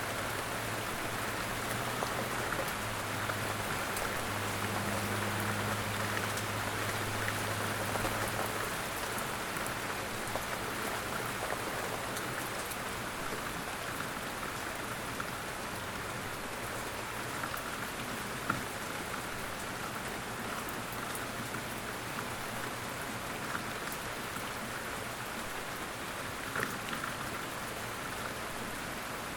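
Light rain falling steadily in woodland, a soft even patter with an occasional louder drip. A faint low hum sits under it for the first several seconds.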